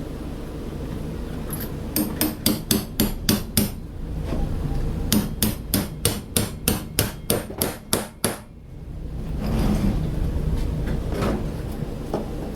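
A hammer striking a bolt and nut over and over to drive them into a wooden beam, in two quick runs of about five blows a second: about eight, then after a pause about a dozen. A scraping noise follows near the end.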